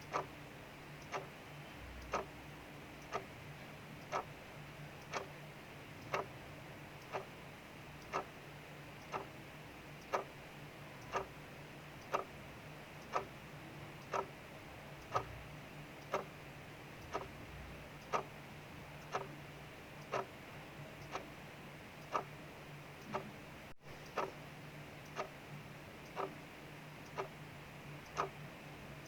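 Clock ticking steadily, about one tick a second, over a steady hiss of rain.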